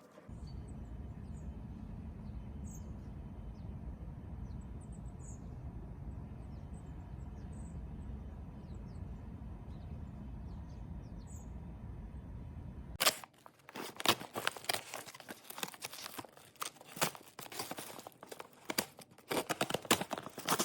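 A steady low rumble with faint, short high chirps of birds above it. About two-thirds of the way in it changes abruptly to a dense run of crackles and rustles of packaging being handled.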